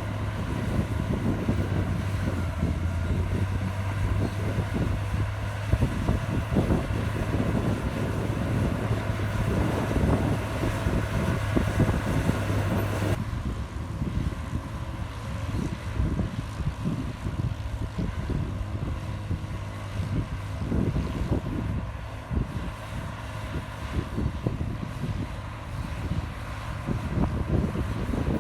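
Heavy diesel earthmoving machinery, a bulldozer at work, running steadily with a low hum. About halfway through the sound changes abruptly and the hum drops out, while the machine's uneven rumble carries on.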